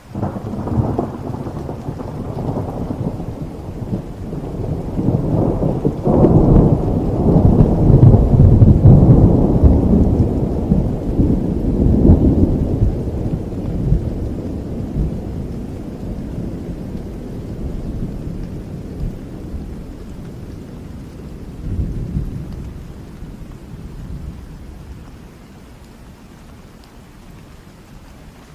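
A long, deep rolling thunderclap over steady rain: the rumble breaks in suddenly, builds to its loudest in the middle with repeated peals, swells once more later and dies away near the end.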